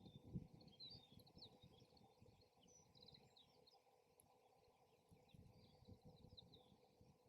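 Faint birds chirping over gusty wind rumble on the microphone.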